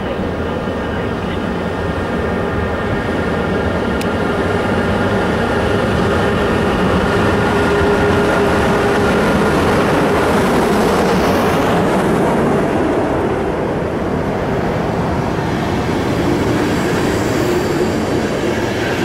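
DB class 120 electric locomotive hauling an Intercity train passing close by, the locomotive going past first and then the coaches rolling by. A steady high whine sits over the running noise in the first half. The sound swells around the middle and eases off near the end.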